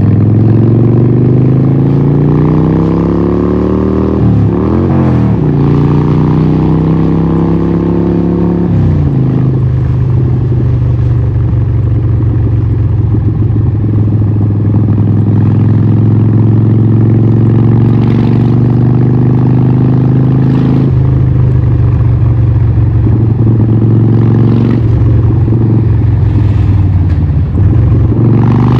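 Harley-Davidson 1200 Nightster's 1200cc Evolution V-twin running loud through a Vance & Hines exhaust under way. The engine note climbs for the first few seconds, dips and rises again about four seconds in, climbs once more, then drops near nine seconds. After that it holds a steady cruising note that rises slowly, with small changes near the end.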